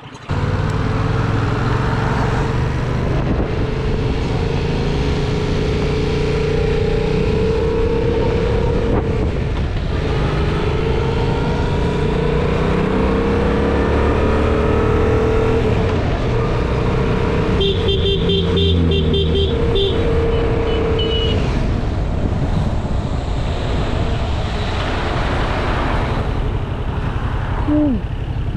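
Yamaha MT-07's parallel-twin engine running on the road, its pitch climbing again and again as it pulls through the gears, with wind rushing over the microphone. A pulsing horn-like beep sounds for a few seconds about two-thirds of the way through.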